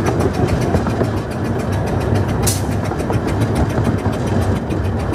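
A 12¼ inch-gauge miniature steam train running, heard from an open passenger carriage: steady rumble and rattle of the carriage wheels on the rails, with a fine rapid ticking and one sharp clack about two and a half seconds in.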